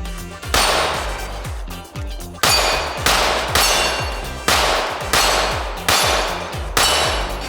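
Ported Glock 17 9mm pistol firing seven aimed shots, a half to two seconds apart, at steel plates that clang when hit, with background music running underneath.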